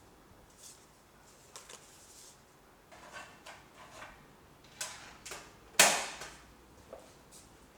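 Household handling sounds: a run of light taps, clicks and rustles, with one sharper knock about six seconds in that rings briefly.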